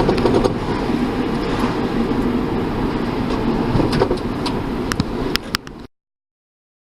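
Road and engine noise inside a moving car's cabin, a steady rumble with a few sharp clicks near the end; it cuts off abruptly about six seconds in.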